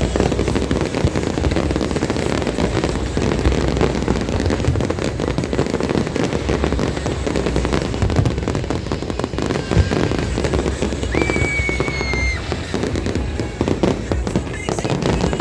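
Aerial fireworks display: a dense, continuous stream of bangs and crackling with a low rumble, over background music. A brief steady high whistle tone sounds about eleven seconds in.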